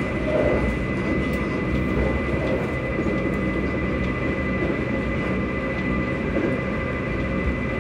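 Electric train running between stations, heard from inside the carriage: a steady rumble of wheels on rail under a constant high whine from the VVVF traction motors and their cooling fans.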